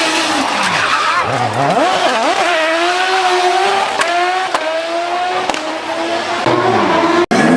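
Rally car engine working hard on a stage: revs drop and climb again, then rise in steps with quick gear changes about four and five seconds in. The sound cuts off abruptly near the end.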